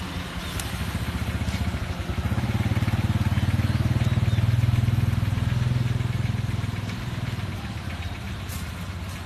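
A small engine running with a fast low throb, growing louder toward the middle and then fading away.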